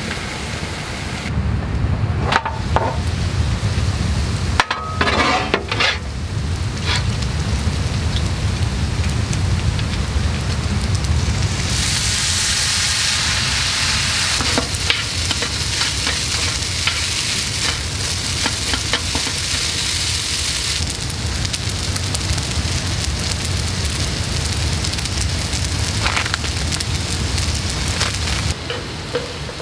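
Yakisoba noodles and meat frying on a metal tray, sizzling while being stirred and turned with a utensil. There are clicks and scrapes of the utensil on the tray a few seconds in, and the sizzle is loudest from about twelve to twenty seconds in, over a low steady rumble.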